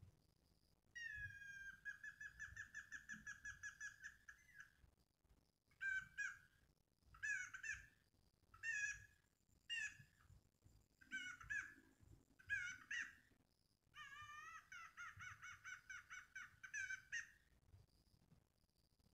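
A bird calling: a long run of rapid chattering notes, then six short harsh calls, then a second rapid chattering run. A faint high insect drone is at the start and end.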